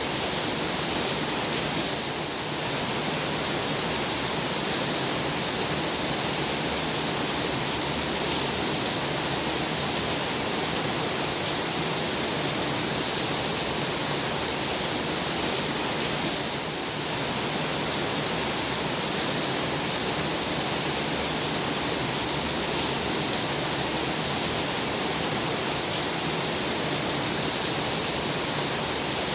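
Heavy rain pouring steadily: an even, unbroken hiss that eases very slightly twice for a moment.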